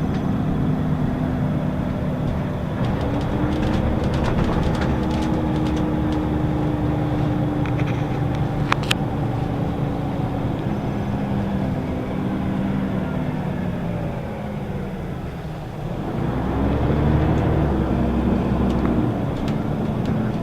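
Scania L94UB city bus's diesel engine and ZF automatic gearbox heard from inside the bus: engine pitch rising as it pulls, holding, then falling away as the bus slows about three-quarters of the way through, before climbing again as it pulls away. A single sharp click sounds near the middle.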